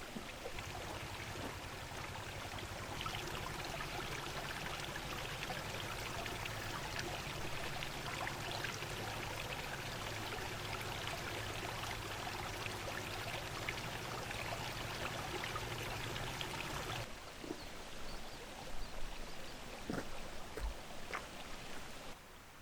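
Steady rushing of flowing water. About 17 seconds in it cuts to a quieter outdoor background with a few scattered clicks.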